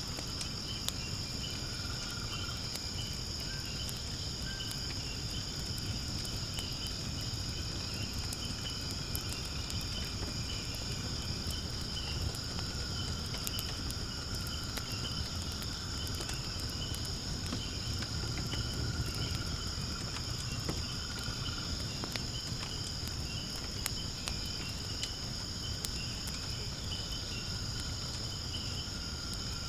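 Steady, high chirring of insects over a wood fire burning in a fire pit, with a low rumble and scattered small crackles and pops from the burning wood.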